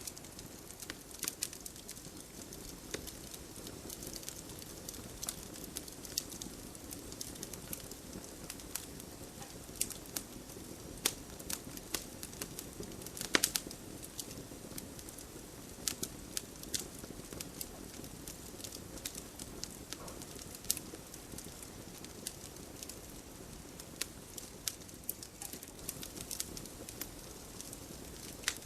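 Campfire crackling: irregular sharp pops and snaps over a steady low hiss of burning, with one louder pop about halfway through.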